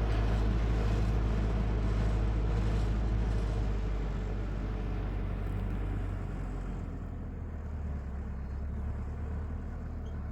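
A motor engine running steadily with a low hum, growing quieter about halfway through and settling lower in pitch.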